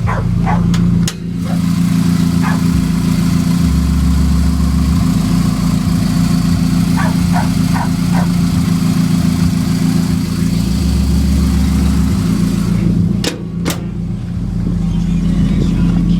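Mitsubishi Eclipse engine idling steadily through an aftermarket Apexi exhaust with headers, a deep even hum. A dog barks a few times partway through.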